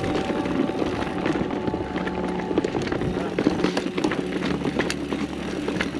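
Mountain bike riding downhill on dirt singletrack: tyres rolling over the trail, with frequent rattles and knocks from the bike over rough ground and a steady buzz underneath.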